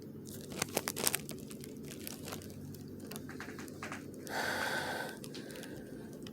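Crinkling and tearing of a wrapper: a quick run of sharp crackles in the first two seconds, then a short, louder rush of noise about four seconds in.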